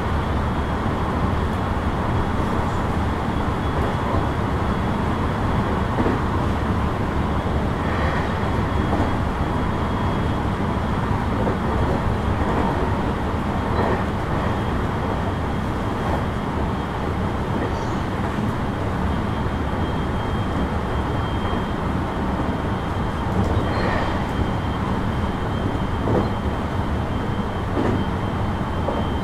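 Cabin noise inside a JR West 223 series 2000 electric train running at a steady speed: a continuous rumble of wheels on rail, with a faint steady high tone and a few light knocks.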